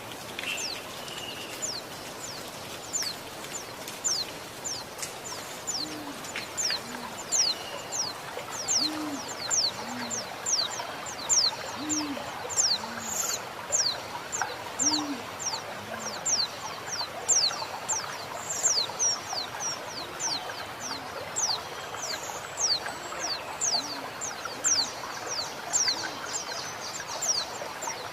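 A female white-eye (pleci) calling in a steady run of thin, high, falling notes, about one or two a second. Under them a low two-note cooing repeats about every three seconds, over a constant wash of flowing water.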